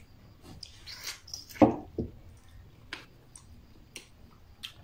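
Close-miked eating sounds of someone eating rice and fish with his hands: chewing with scattered wet mouth clicks and smacks, the loudest two about one and a half and two seconds in.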